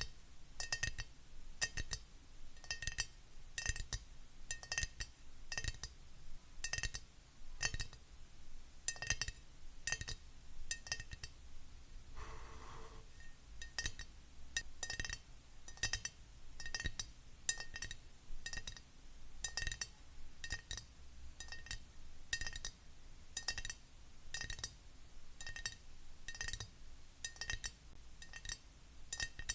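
Fingernails tapping on a glass object: sharp clicks, roughly two a second, each leaving a short glassy ring. A brief softer handling sound breaks the run about halfway through.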